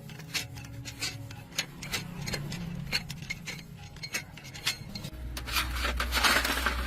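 Irregular light clicks and ticks, two or three a second, over a low steady hum. About five seconds in, a deeper drone starts and a hiss swells briefly.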